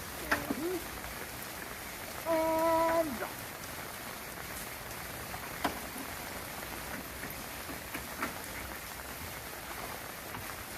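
Steady rain falling, with scattered sharp drip-like ticks. A little after two seconds in, a short steady pitched tone with overtones sounds for just under a second.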